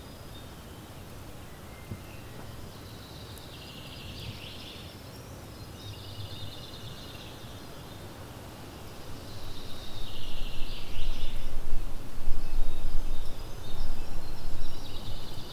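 A bird singing short, buzzy, trilled phrases about every three seconds over steady outdoor background noise. From about nine seconds in, a much louder gusty low rumble comes in underneath.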